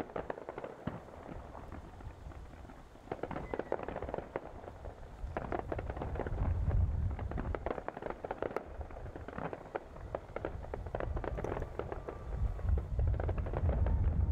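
Fireworks display: dense crackling and popping of bursting shells, with heavy low rumbling booms about six seconds in and again near the end.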